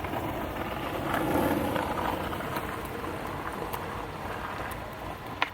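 Skateboard wheels rolling on pavement, then a sharp clack of the board just before the end.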